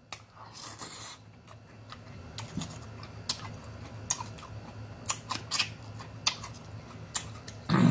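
Close-up chewing of a mouthful of seasoned green beans, with wet mouth clicks and smacks coming irregularly about once a second.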